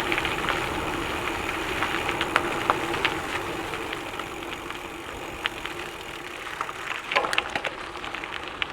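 Gravel bike tyres rolling over a sandy, gravelly trail: a steady hum with scattered crunching clicks.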